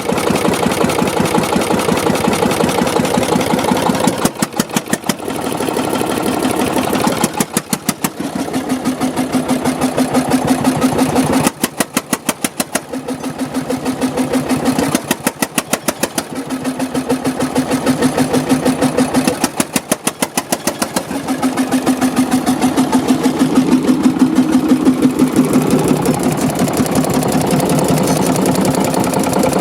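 Deutz MH320 single-cylinder, water-cooled stationary diesel engine running, with a rapid, even knocking beat that swells and fades several times.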